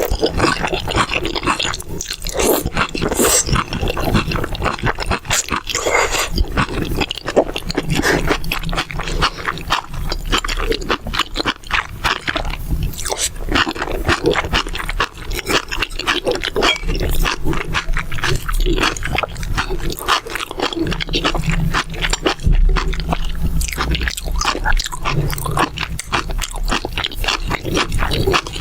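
Close-miked eating sounds of mala xiang guo: steady crunching, chewing and wet mouth clicks, with now and then the scrape of utensils.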